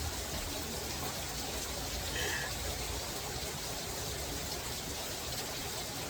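Steady rushing of water, with one brief faint sound about two seconds in.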